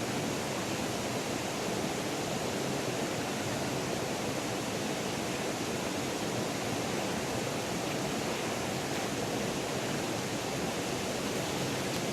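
Steady rushing water, an even hiss-like roar without change.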